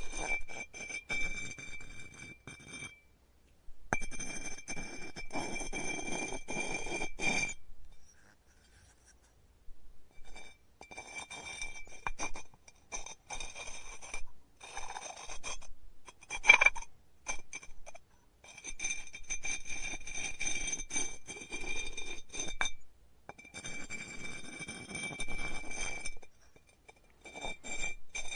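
Pottery studio work sounds: a tool or hands scraping and rubbing against clay, with a steady high ringing whine, in stretches of a few seconds broken by short pauses. One sharp knock comes about halfway through.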